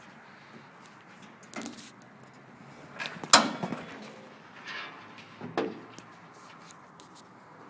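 Door clunks and handling knocks over a steady low hiss. The loudest is a sharp bang about three seconds in. No engine is running.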